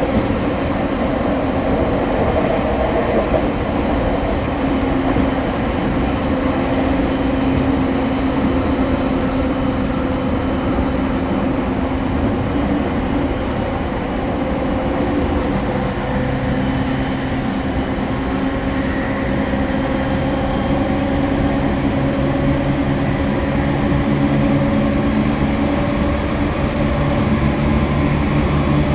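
Interior running sound of an E231 series commuter train travelling at speed: continuous rolling noise of the wheels on the rails, with a steady hum whose pitch drifts slowly.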